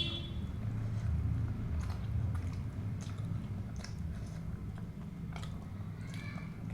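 A person chewing food close to the microphone, with scattered short wet clicks and smacks.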